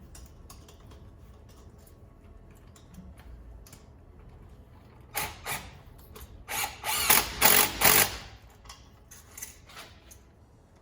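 A hose clamp on a rubber coupler being tightened with a hand or power tool: light mechanical clicks at first, then a run of loud, sharp bursts about five to eight seconds in.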